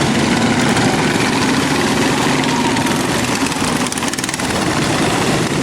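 Engines of modified racing lawn mowers running together, a loud steady engine drone.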